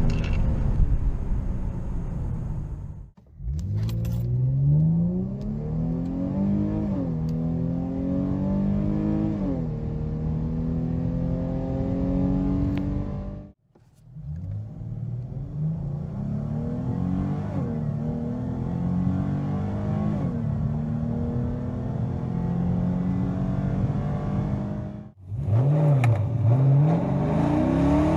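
Dodge Challenger engine accelerating hard through the gears, its pitch climbing and dropping back at each upshift, in three separate runs one after another, then a short run of quick revs near the end.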